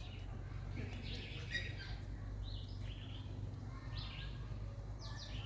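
Birds chirping in a series of short, high calls over a steady low hum.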